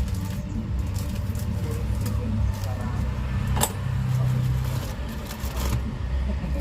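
Steady low rumble of a motor vehicle's engine running, with scattered light clinks and clatter over it and one sharper click about three and a half seconds in.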